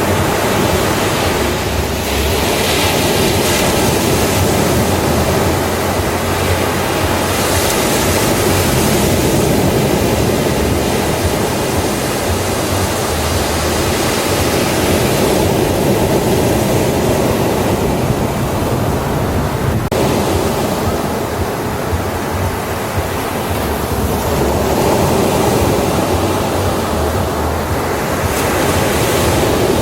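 Ocean waves breaking on a beach: a steady wash of surf, with louder breakers swelling up every several seconds.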